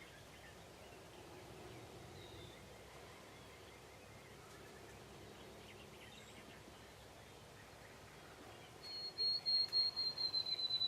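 Faint outdoor background with a few weak, distant bird calls, then, about nine seconds in, a songbird begins a loud, high, rapid trill of evenly repeated notes that slides slightly lower in pitch.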